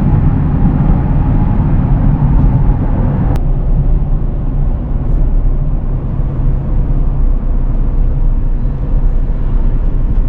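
Steady low rumble of a moving vehicle, road and engine noise heard from inside, with an abrupt change in its character about three seconds in.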